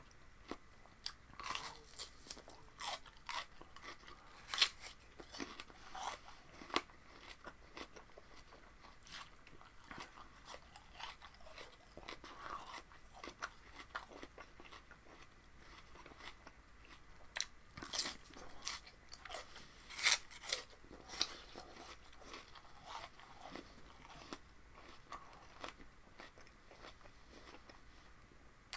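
A person biting and chewing crunchy raw vegetables: an irregular run of crisp crunches, the loudest bites about four to five seconds in and again around eighteen and twenty seconds.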